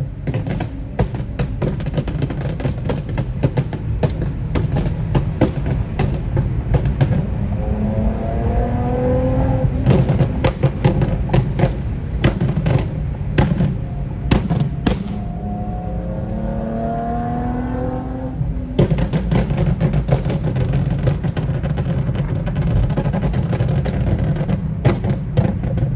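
Nissan 370Z's 3.7-litre V6 running through a full ISR exhaust (long-tube headers, Y-pipe, catback), pulling hard. Its pitch climbs through a long pull about a third of the way in and again past the middle, dropping off at each shift or lift, with frequent sharp cracks.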